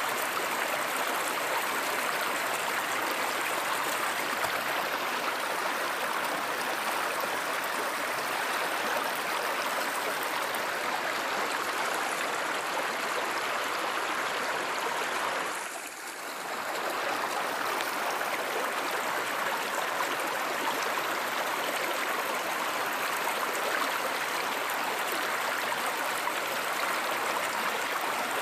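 Stream water running with a steady, even rush; the level dips briefly about halfway through.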